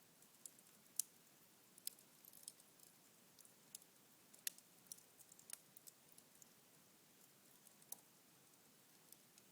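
Cherry-wood fire burned down to embers in a fireplace, crackling faintly: scattered sharp ticks and pops at irregular intervals over a soft hiss, the loudest pops about a second in and at about four and a half seconds.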